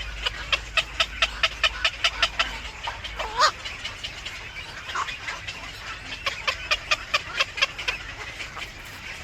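Bird calls: two bouts of short, sharp calls repeated about four times a second, with a single longer call that dips and rises in pitch between them.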